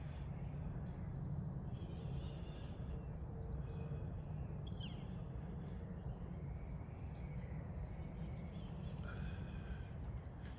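Faint, scattered bird chirps with one short falling call about five seconds in, over a steady low background rumble.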